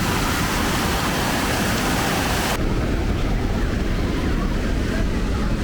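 Steady rushing noise of falling water from the falls. About two and a half seconds in, the hiss cuts off abruptly, leaving only a low rumble.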